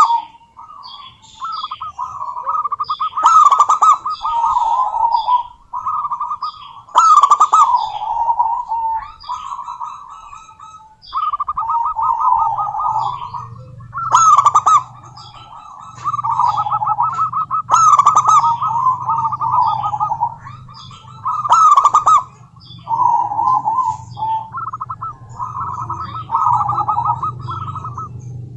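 Zebra dove (perkutut) singing: a phrase of rapid staccato coos is repeated every three to four seconds, with each phrase starting loud and sharp. A faint low hum sits underneath from about halfway through.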